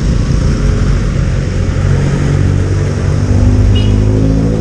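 A motor vehicle engine running steadily close by, over the noise of street traffic. A brief high chirp comes about three-quarters of the way through.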